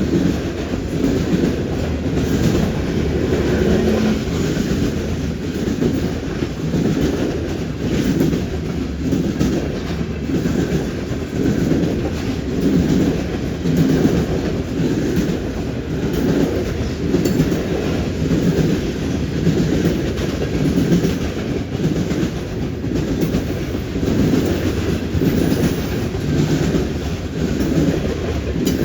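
Long freight train rolling past, its steel wheels clacking over the rail joints and switch in a repeating beat roughly once a second over a steady low rumble.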